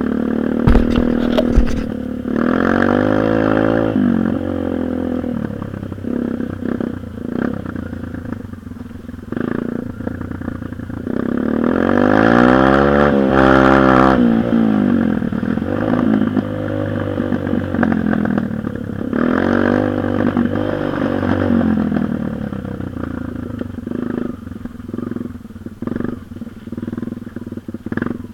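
Dirt bike engine running and being revved, its pitch rising and falling several times, with a few sharp knocks about a second in.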